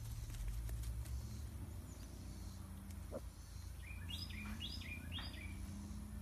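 A songbird singing three short, quick phrases of stepped high notes from about four seconds in, over a low steady rumble.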